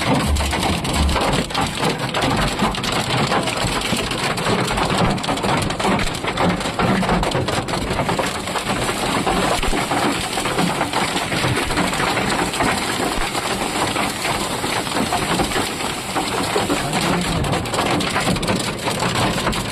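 Heavy rain pouring steadily, a dense patter of drops striking hard surfaces, with a few low thumps near the start.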